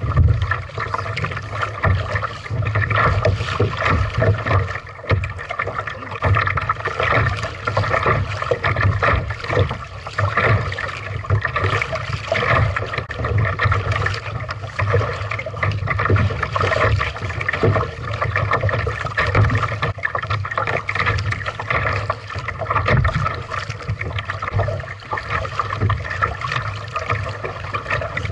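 Water splashing and rushing around a kayak as it is paddled, swelling and easing every few seconds with the strokes, over a steady low rumble.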